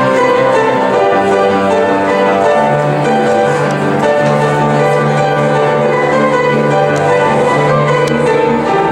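Instrumental music led by piano, with long held notes and chords.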